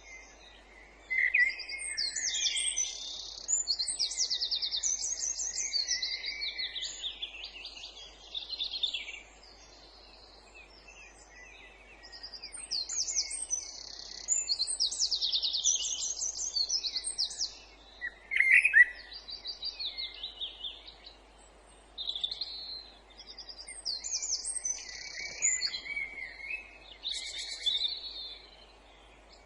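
Songbirds singing: bursts of quick trilled and repeated notes a few seconds long, separated by short pauses, over faint background noise.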